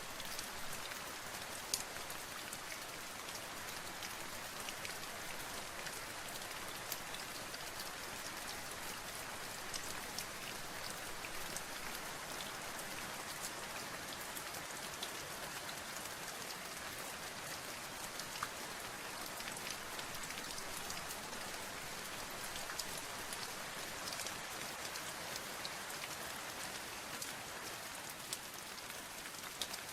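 Steady rain falling, an even hiss with the sharp ticks of individual drops striking a surface scattered through it.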